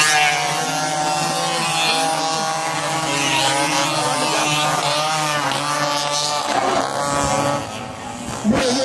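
Several dirt-bike engines revving, their pitches rising and falling over one another above a steady low drone. The sound drops away briefly near the end, then comes back suddenly and loud.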